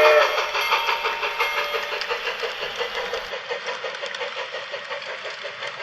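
A train whistle cuts off just as the sound opens. It leaves the quick, rhythmic clatter of the train running, which fades away steadily.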